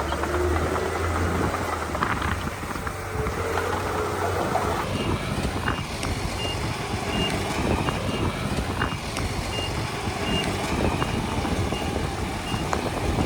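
Diesel engine of a crawler bulldozer running, with track and blade clatter. From about five seconds in, a reversing alarm beeps about twice a second, a sign that a machine is backing up.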